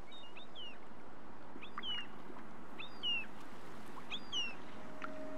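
Bird calls: short phrases of a few chirps, each ending in a downward-sliding note, repeated about every second and a bit over a steady hiss of background noise. A low held tone comes in near the end.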